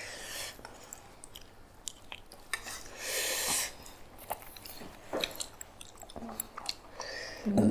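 Close-up eating sounds: chewing and mouth noises of people eating a rice meal, with small scattered clicks and scrapes of food and plates. A short hissing rustle comes about three seconds in.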